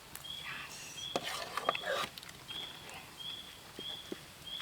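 A small creature, an insect or a bird, repeating a short high chirp about once every two-thirds of a second, with a few light clicks and rustles mixed in.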